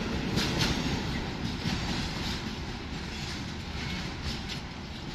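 A train passing on the track, its wheels clacking over the rail joints with a steady rumble, slowly fading as it moves away.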